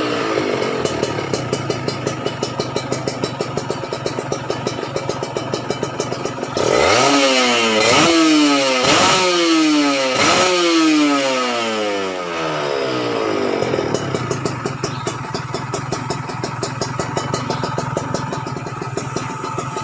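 Kawasaki Ninja RR's 150 cc two-stroke single running through an aftermarket Aitech exhaust. It idles with a rapid even pulse, is blipped four times in quick succession around the middle with the revs shooting up and falling back each time, then settles back to idle.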